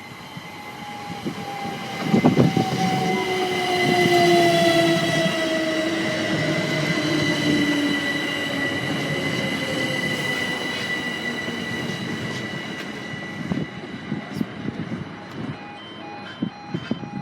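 Great Northern class 387 electric multiple unit running into the platform. Its traction motor whine falls slowly in pitch as it slows, over a high steady squeal and the rumble of the train. Near the end, short electronic beeps start repeating at an even pace.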